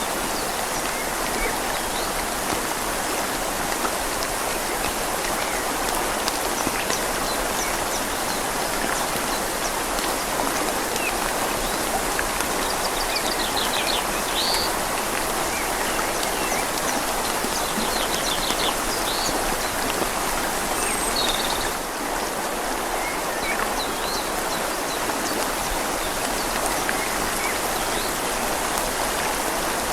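Steady rain falling on leaves mixed with the rush of a flowing river, an even hiss that holds at one level throughout. A few faint bird chirps come through around the middle.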